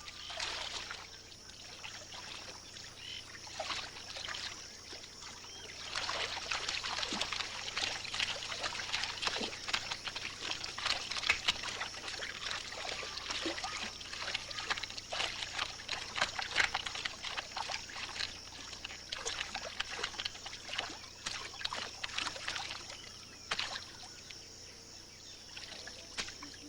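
Caimans splashing and sloshing in shallow water, as a run of short, irregular splashes that is busiest through the middle, over a steady high-pitched drone.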